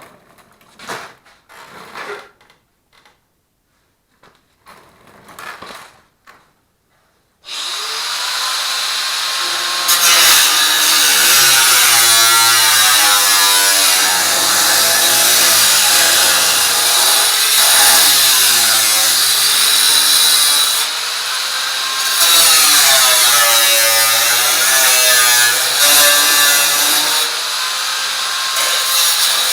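A few light knocks and clicks, then about seven seconds in a handheld power tool starts up and runs continuously on the steel stove barrel, loud and harsh. Its pitch wavers up and down as the load changes.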